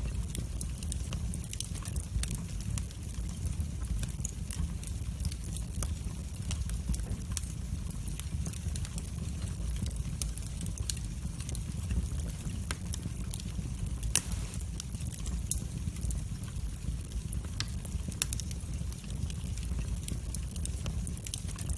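Wood fire burning in a fireplace: a steady low rumble of the flames with many small, irregular crackles and pops, one sharper pop about fourteen seconds in.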